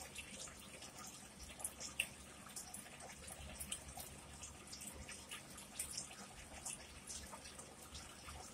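Faint, close-up wet chewing with irregular small mouth clicks and lip smacks as a person eats a salad.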